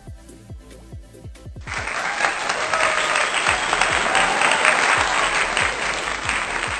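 Background music with a steady beat; about a second and a half in, a crowd's loud applause starts over it and carries on to the end.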